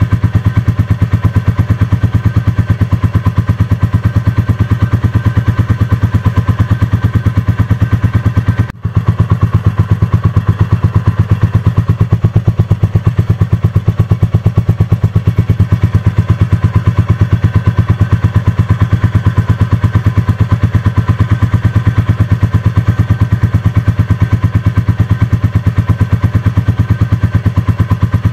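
Royal Enfield Classic 350's single-cylinder engine thumping steadily through its exhaust while cruising, a fast, even train of beats that holds one pace throughout. The sound drops out briefly about nine seconds in.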